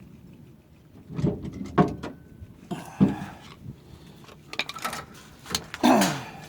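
Metal tools knocking and scraping on a pickup truck's disc brake caliper, a series of separate clanks a second or so apart, with a short creak falling in pitch near the end.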